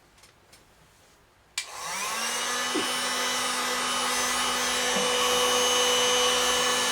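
Electric heat gun switched on with a click about a second and a half in, its fan motor winding up to a steady whine and blowing hot air.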